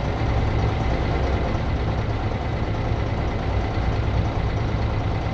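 Blue Bird bus engine running steadily, with a deep even hum that neither rises nor falls.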